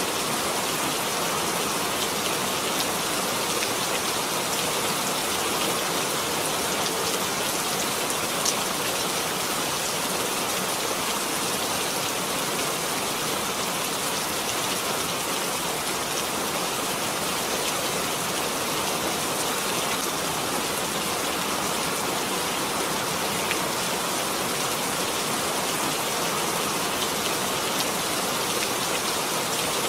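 Steady rain falling, an even hiss with faint individual drop ticks.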